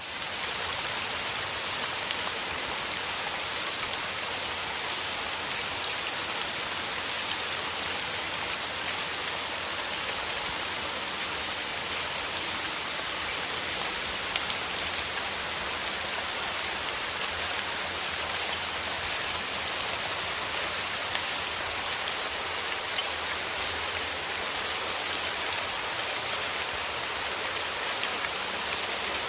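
Steady rain falling, with a dense patter of individual drops on surfaces over an even hiss.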